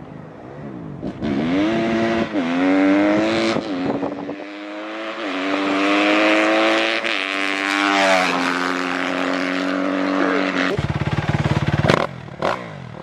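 Dirt bike engine revving and accelerating hard, climbing in pitch in steps as it shifts up, holding high for a few seconds, then falling in pitch. Near the end a lower, rougher engine note takes over.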